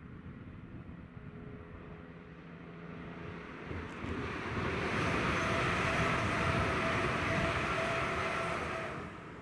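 East Midlands Railway Class 360 electric multiple unit approaching and passing at speed: the rumble of wheels on rail grows from about three seconds in and is loudest over the last four seconds, with a steady whine on top. It drops away suddenly near the end.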